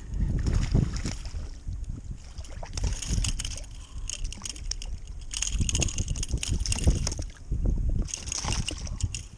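Water sloshing and splashing against a kayak in uneven bursts, with a low rumble underneath.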